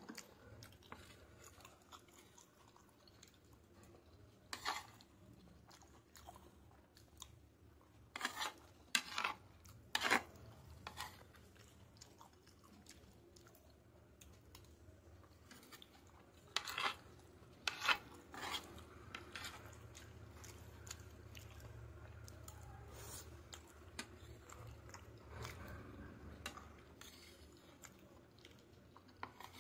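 Close-miked chewing and mouth sounds of someone eating spicy macaroni pasta. A few sharp clicks, in clusters, sound as a metal spoon knocks and scrapes on the ceramic plate, over a low steady hum.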